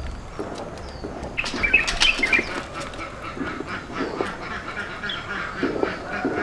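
Animal calls, with a louder burst of calling about one and a half to two and a half seconds in.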